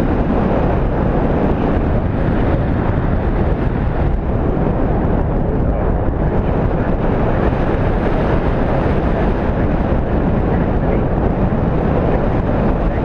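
Steady wind noise buffeting the microphone, a loud even rush with no breaks.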